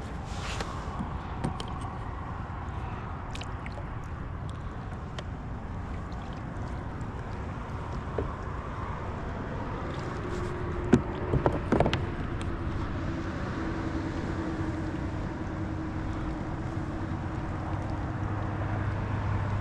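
Steady low rumble of wind and water around an anchored kayak. A few sharp knocks come about halfway through, and a faint steady hum runs through the second half.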